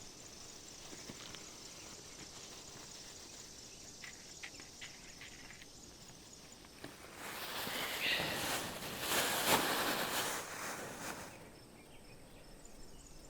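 Insects chirping faintly and steadily with a regular pulse, a few light clicks partway through, then several seconds of louder rustling in the second half.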